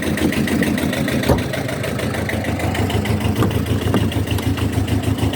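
A Kubota's engine idling steadily, with one sharp knock about a second in.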